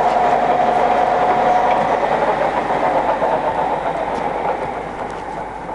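Microweily TY22100 centre lathe running with its spindle at about 160 rpm: a steady gear whine over a constant mechanical rattle from the headstock, easing slightly near the end. The headstock is one its seller calls a bit noisy.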